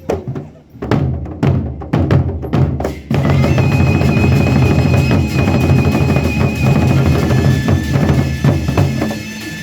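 Drums of a traditional percussion ensemble playing an opening pattern: a few separate strikes, then dense, continuous drumming from about three seconds in, with a steady high tone held over it.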